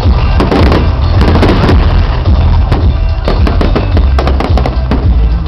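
Fireworks going off in a rapid, irregular run of sharp cracks and bangs, with music playing underneath and a steady low rumble throughout.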